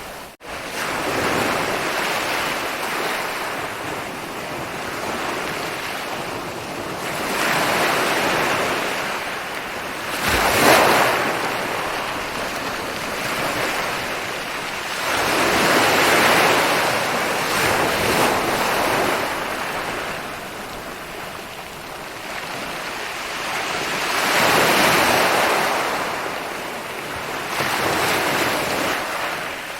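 Ocean surf: waves rolling in and breaking, a continuous wash of water that swells and fades with each wave every few seconds, the loudest crash about ten seconds in. A momentary drop-out just after the start.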